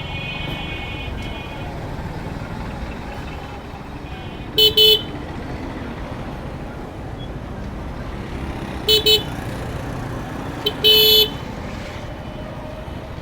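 Vehicle horn honking over a steady traffic rumble: two quick toots, then two more a few seconds later, then a short toot followed by a longer one near the end.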